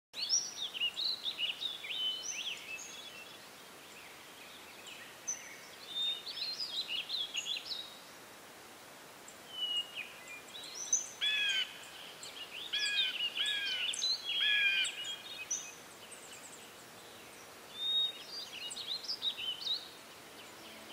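Birds singing: phrases of quick chirps and whistled notes that come in groups, with pauses of a second or two between them, over a faint steady hiss.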